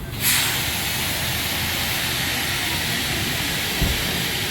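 Pressure washer jet switching on suddenly and spraying with a steady, loud hiss, with a single dull thump near the end.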